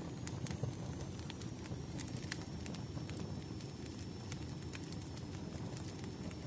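Wood fire crackling steadily: a low rumbling hiss with scattered sharp pops and snaps.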